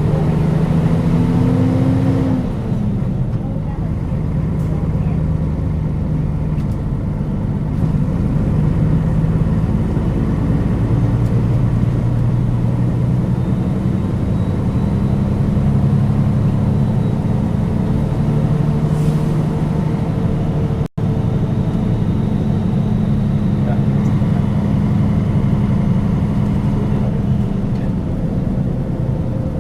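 Cabin running sound of a Nissan Diesel KL-UA452KAN city bus: the diesel engine pulls with its pitch rising, drops about two and a half seconds in, then runs at a steadier pitch that shifts in steps as the bus drives on. The sound cuts out for an instant about 21 seconds in.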